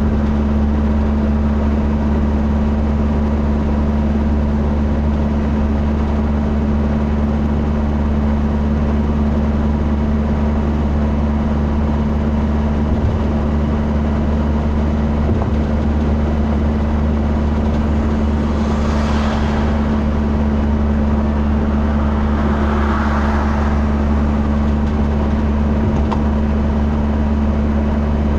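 Steady low drone of a motor vehicle heard from inside the cabin, with two brief swells of hiss near the end.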